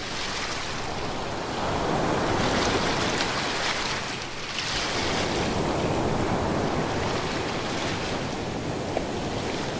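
Ocean waves breaking and washing on the shore in a continuous rush, swelling and easing as the waves come in, with faint crackling of water among the surf.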